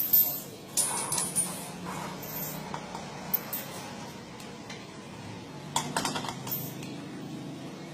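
Light clinks and taps of small hard objects, in a cluster about a second in and another around six seconds in.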